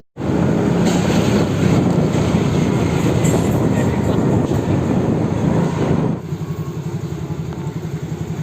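Road vehicle noise: a loud, steady rumble that about six seconds in drops to a quieter, even throb, after a split-second dropout at the very start.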